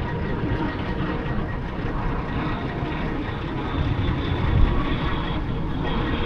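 Car driving on city streets: steady rumble of road and engine noise. A faint high whine comes in about two seconds in and stops just before the end.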